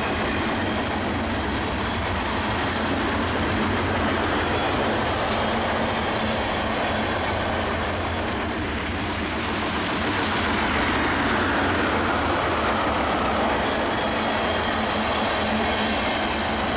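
Freight train of tank cars rolling past, its steel wheels running steadily on the rails; the noise swells a little about ten seconds in.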